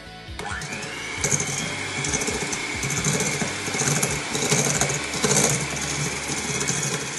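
Electric hand mixer switched on: its motor whine rises quickly as it spins up, then runs steadily while the beaters cream butter and sugar in a stainless steel bowl, with scattered clicks and rattles from the beaters.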